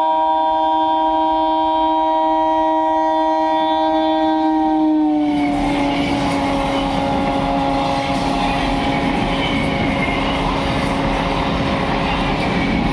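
A train horn sounding one long, steady chord as the train approaches. About five seconds in, the chord drops slightly in pitch as the train passes, and the loud rumble of the train running by on the rails joins in under the horn.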